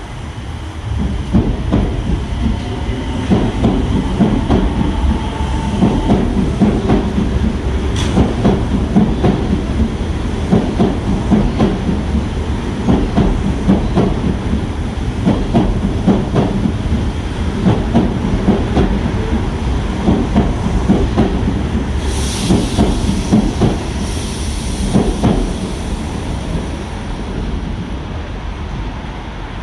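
Osaka Metro Midosuji Line 30000 series train pulling out, its wheels clacking over the rail joints in a steady rhythm. The sound swells about a second in and fades near the end, with a brief high hiss about two-thirds of the way through.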